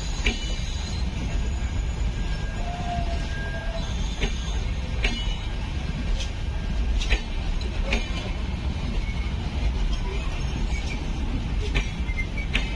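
Passenger train of LHB coaches rolling slowly past: a steady low rumble with irregular sharp clanks of the wheels over rail joints and points.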